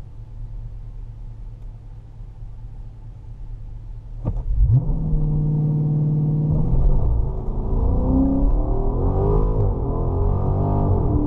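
Chrysler 300 SRT's 6.4-litre Hemi V8 heard from inside the cabin: a low idle rumble, then about four seconds in the engine revs sharply and holds a loud steady note for about two seconds. The car then launches, the engine pitch rising and dropping repeatedly as it accelerates hard through the gears.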